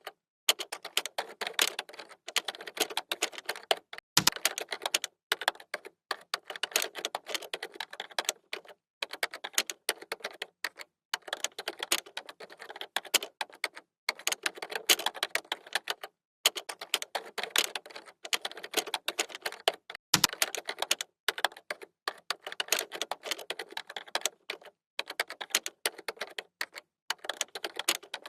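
Fast typing on a computer keyboard: rapid runs of key clicks broken by brief pauses every few seconds, with a heavier keystroke twice.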